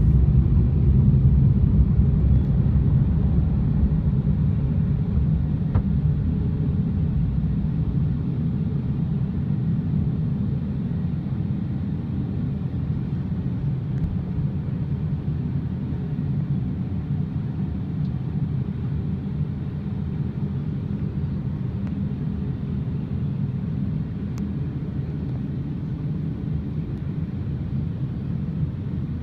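Steady, muffled low rumble of automatic car wash machinery, heard from inside the car's cabin, slowly growing quieter.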